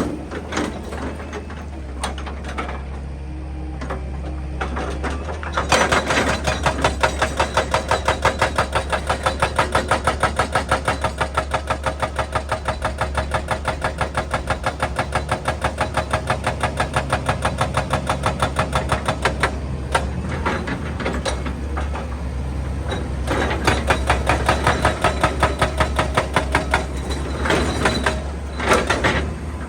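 Excavator-mounted hydraulic breaker hammering rock in rapid, even blows over the steady drone of the diesel engine. The hammering starts about six seconds in and stops around twenty seconds. It comes back in two shorter runs near the end.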